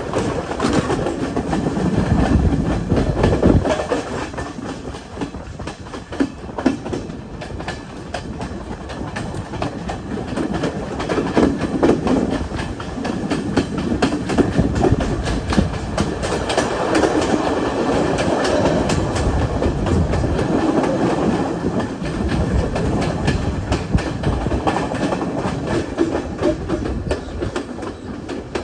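Passenger train running along the track, its wheels clattering over the rails in many quick clicks above a steady rumble.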